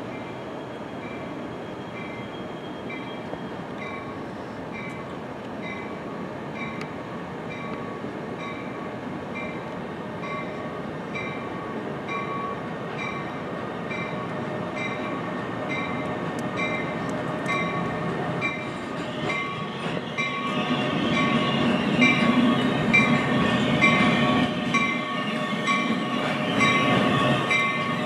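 NJ Transit ALP-46 electric locomotive pulling a passenger train into a station, its running noise building as it approaches and growing much louder in the last several seconds as it comes alongside. A bell dings at an even pace throughout.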